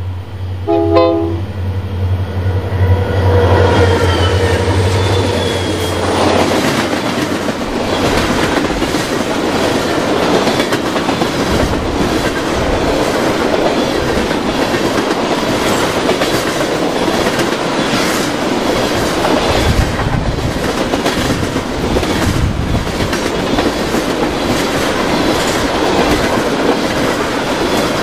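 A train passing close by at speed. About a second in there is a short horn toot. A low diesel locomotive drone is heard for the first several seconds, then gives way to the steady rumble and clickety-clack of railcars rolling over the rails.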